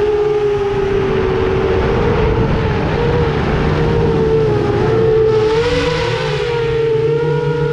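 FPV quadcopter's brushless motors whining steadily, the pitch wavering a little with throttle, with a brief swell of rushing noise a little past the middle.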